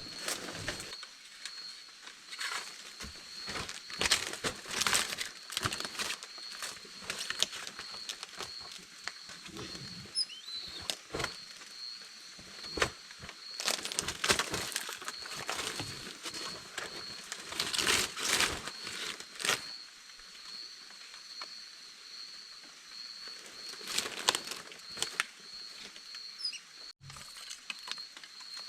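Irregular rustling and crackling noises, a few louder clusters among them, over a steady thin high-pitched tone that does not change.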